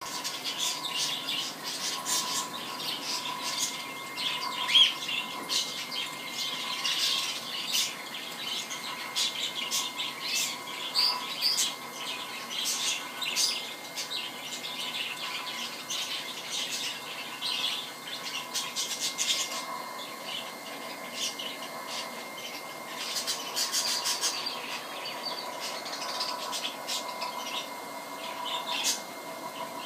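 Birds chirping and squawking in many short, irregular calls, over a faint steady high tone.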